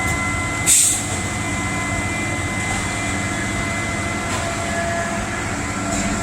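Heavy diesel engines of concrete trucks running steadily, with a short loud hiss about a second in.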